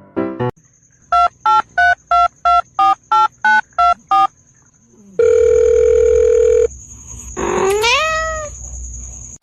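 Ten telephone keypad tones dialed in quick succession, then a steady tone for about a second and a half, then a cat meowing once, rising in pitch.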